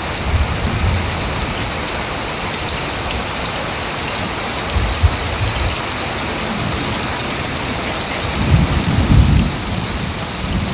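Heavy steady rain hissing as it falls on the ground and on water. A few low rumbles break through it: one at the start, one about halfway and a louder one near the end.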